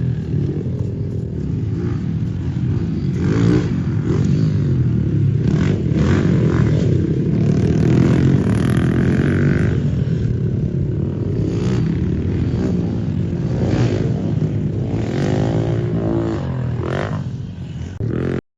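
Dirt bike engine running and revving up and down steadily, cutting off suddenly near the end.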